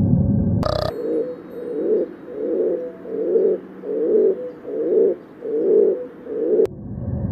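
A bird giving a run of eight low, evenly spaced coos, about one every three-quarters of a second, starting just after a sharp click and cutting off abruptly.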